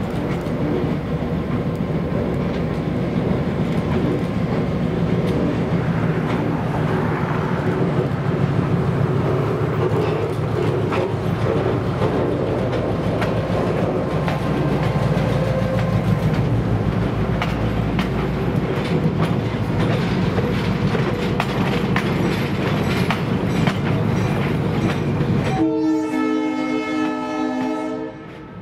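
Diesel-hauled passenger train passing close by, the locomotive engine running steadily under faint clicking of wheels on rail joints. Near the end the train horn sounds a steady chord of several notes for about two and a half seconds.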